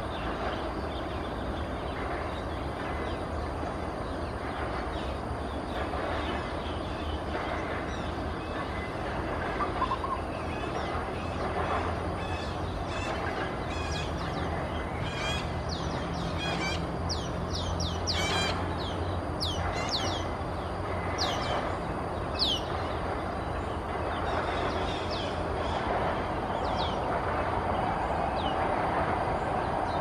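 Bird calls: a series of short, high notes, each sliding quickly downward, coming thickly in the middle stretch and thinning out towards the end, over a steady low rumble.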